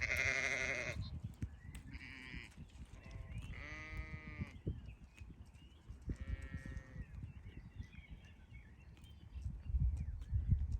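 Sheep bleating: four wavering calls, the first and loudest right at the start, then three more about two seconds apart. A low rumble rises near the end.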